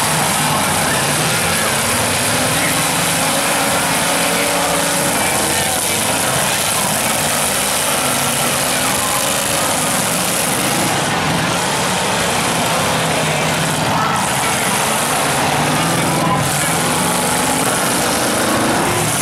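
Engines of several demolition derby cars running and revving at once in a continuous loud mix as the cars push and ram one another.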